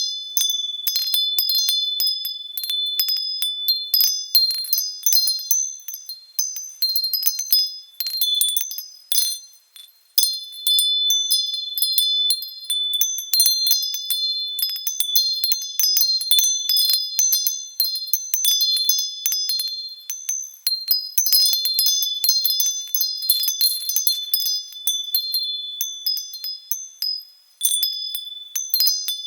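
Wind chimes stirred by the wind, ringing almost continuously in many overlapping clear high tones. The strikes thin out briefly about ten seconds in and again near the end.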